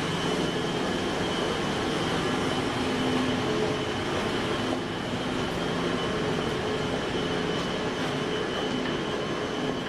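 Electric commuter train at the platform, a steady running noise with a steady hum through it.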